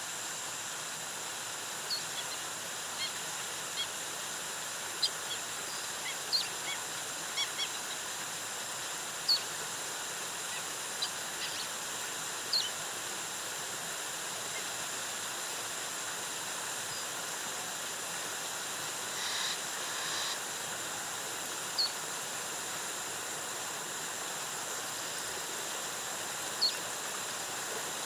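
Steady rush of a rainforest waterfall, with scattered short, high bird chirps, most of them in the first half, and a rougher call lasting about a second a little past the middle.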